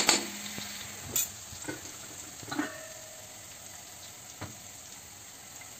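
Chopped garlic and whole cumin sizzling steadily in hot oil in a kadai, with a few scrapes and knocks of a spatula against the pan, most of them in the first three seconds.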